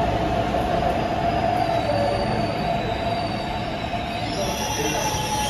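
MTR East Rail Line Hyundai Rotem R-Train electric multiple unit slowing as it pulls in along the platform, with a steady whine from the braking train. A higher-pitched squeal comes in near the end as it comes to a stop.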